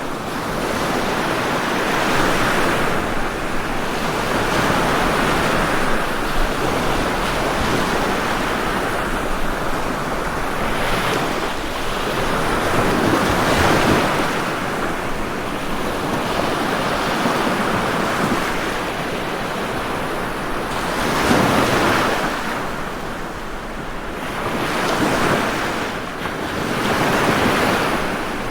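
Ocean waves breaking on a shore, a continuous wash of surf that swells and recedes every few seconds, with a few stronger surges.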